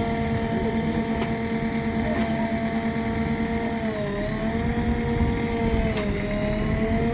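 Heavy diesel engine of the rescue vehicles running steadily. Its pitch dips briefly twice, about four and six seconds in, then recovers.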